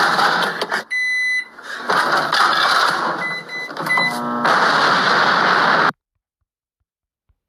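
A loud rushing noise, broken twice by short high electronic beeps of a microwave oven, cuts off abruptly about six seconds in.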